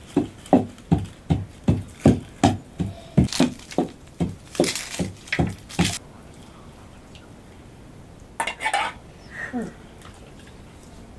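Kitchen utensils striking in a steady rhythm, about three knocks a second, stopping about six seconds in; a few faint clatters follow.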